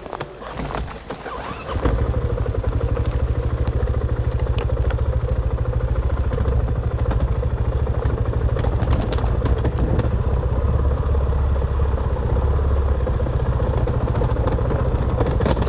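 Dirt bike engine coming on suddenly about two seconds in, then running steadily with an even low beat.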